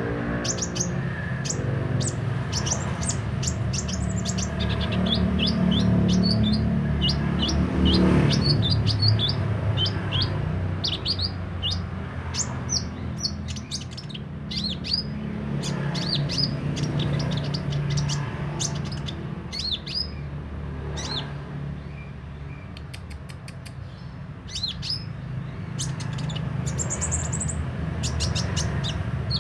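'Kolibri ninja' sunbird singing steadily in a fast string of short, high, sharp chirps and trills, over a steady low hum.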